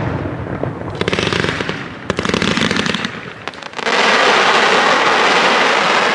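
Aerial fireworks display: crackling shell effects in short bursts. About four seconds in, a dense, sustained crackle begins.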